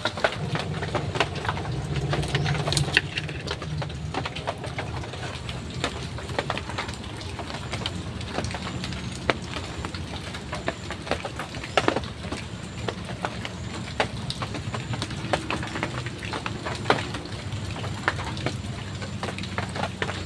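Heavy rain falling steadily, with many sharp irregular drop ticks over a low steady rumble.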